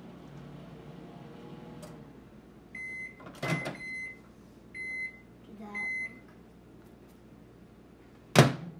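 Microwave oven running with a low hum that fades out about two seconds in, then four electronic beeps roughly a second apart. A sharp click comes between the first two beeps, and a loud thump comes near the end.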